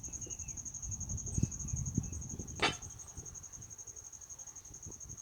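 An insect trilling steadily: one high, finely pulsed tone without a break. Under it is a low rumble with a few knocks in the first half, and a single sharp click a little past the middle.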